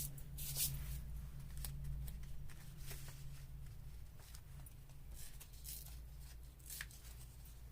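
Soft rustles and light clicks of paper and washi tape being handled and pressed down on a craft table, over a steady low hum.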